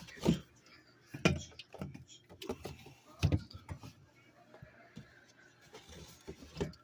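Drink bottles and cans being handled and set down in a fridge: a series of irregular knocks and dull clunks, about six of them.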